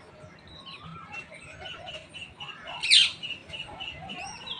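Birds chirping, one note repeated about four times a second, with a single loud, shrill, short call about three seconds in.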